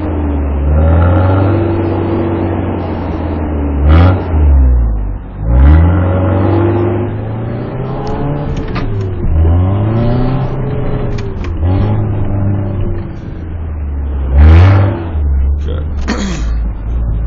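Four-wheel-drive vehicle's engine revving up and down repeatedly under load as it climbs a snowy trail, with loud surges of revs about 4, 6 and 14 seconds in.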